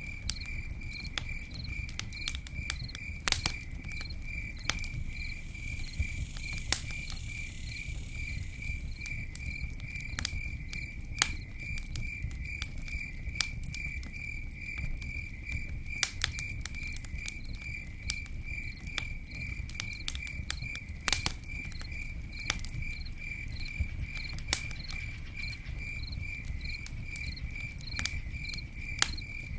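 Campfire crackling, with scattered sharp pops over a low steady rumble, while a cricket chirps in a fast, even, unbroken rhythm.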